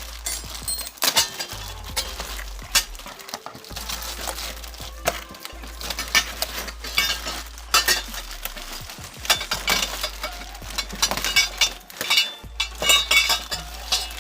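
A cardboard box and its packaging being opened and handled: repeated rustling, crinkling and sharp knocks and clinks of the parts inside. Background music with a steady bass line plays underneath.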